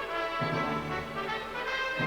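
Orchestral music with brass, horns and trumpets playing a melody over a rhythmic low accompaniment.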